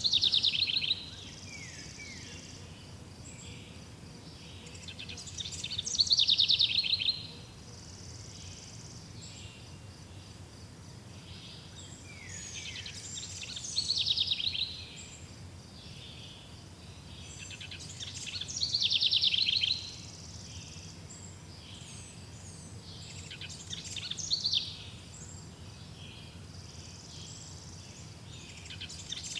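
Birdsong: one bird repeats a short, loud phrase of rapid notes falling in pitch, about once every six seconds, five times. Fainter chirping and a steady insect-like hiss carry on underneath.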